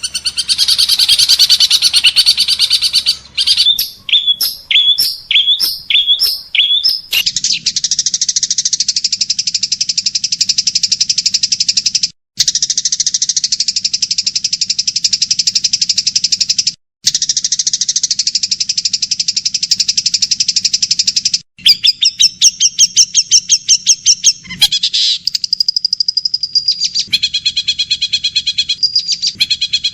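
Recorded songbird calls edited together as bird-training material: a high chatter, then about six sharp repeated calls, then a long, fast, buzzing trill broken by two brief cuts, then rapid repeated notes and a varied twittering phrase near the end.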